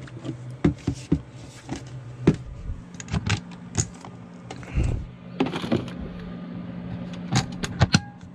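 Irregular clicks and knocks of handling a small washing machine and its detergent bottle, over a steady low hum. A short electronic beep sounds near the end, as a button on the machine is pressed.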